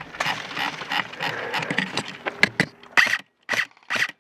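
Airsoft electric gun firing: a long rattling full-auto string, then from about three seconds in, short bursts of its gearbox whirring and clacking, each stopping abruptly.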